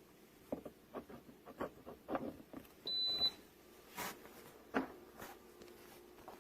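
A series of light clicks and knocks, with one short high electronic beep about three seconds in.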